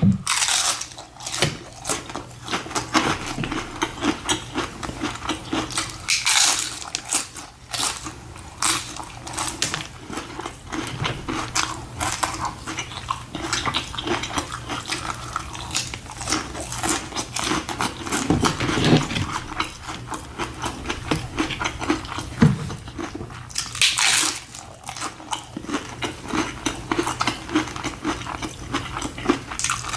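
Close-miked eating of tacos at speed: a continuous run of biting and chewing, with wet mouth smacks and clicks and a few louder crunchy bites.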